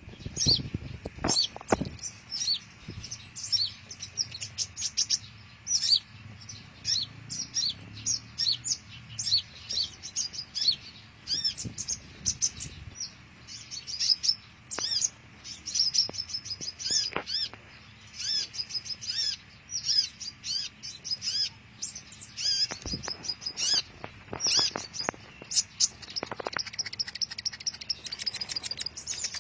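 Sunbirds chirping and twittering: quick runs of short, high-pitched notes, one after another. A few soft knocks come near the start and later on.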